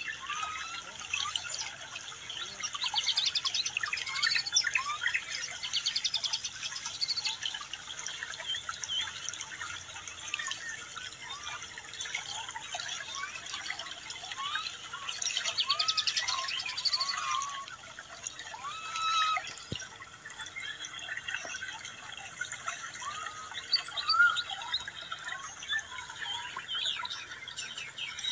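Birds chirping and calling, with many short whistled notes overlapping, and spells of rapid trilling a few seconds in and again about halfway through.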